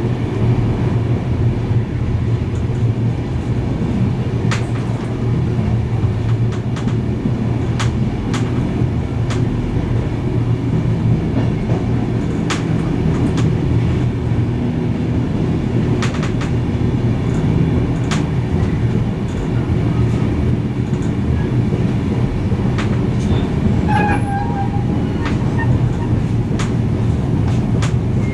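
Steam-hauled heritage train running along the line: a steady rumble with scattered sharp clicks from the wheels, and a short high-pitched squeak near the end.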